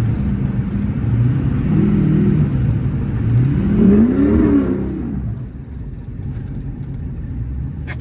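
Ford 6.0 Powerstroke turbo-diesel V8 of a 1979 F-250 driving, revving up and back down twice, then easing off to a quieter steady run about five seconds in.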